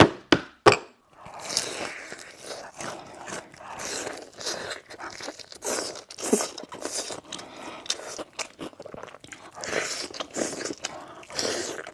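Close-miked biting and chewing of crispy fried chicken: three sharp crunching bites in the first second, then steady crackly chewing with many small crunches.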